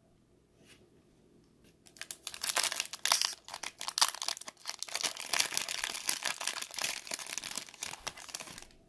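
A trading-card pack's foil wrapper being torn open and crinkled by hand. There is a dense crackling crinkle that starts about two seconds in, goes on for about seven seconds and cuts off just before the end.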